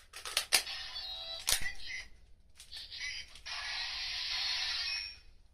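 Electronic sound effects from a Kamen Rider transformation toy played through its small speaker, with two sharp plastic clicks early on and a steady hissing effect that stops near the end.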